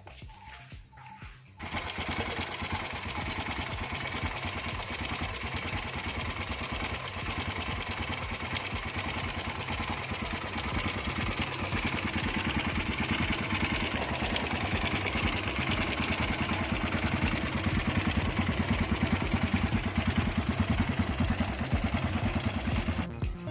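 Restored Honda NX250 single-cylinder four-stroke engine running with a fast, even firing beat, starting suddenly about a second and a half in and growing somewhat louder in the last few seconds.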